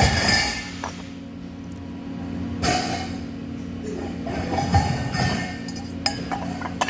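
Light metal clinking and clicking from handling parts, with two short bursts of hiss, over a steady workshop hum.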